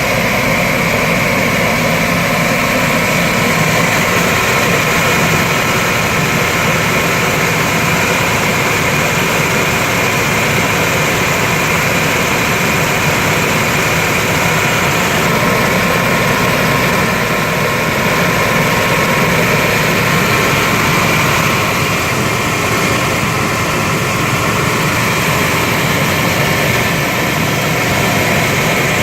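Chevrolet 454 big-block V8 idling steadily after a tune-up, with a constant high-pitched whine over the engine note.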